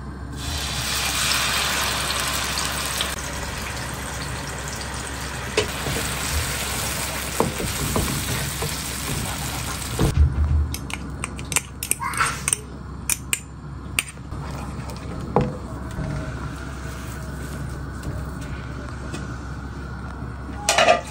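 Grated tomato hitting hot oil in a nonstick frying pan and sizzling, strongest in the first few seconds and then settling to a softer sizzle. From about halfway, a spatula scrapes and knocks against the pan as the sauce is stirred.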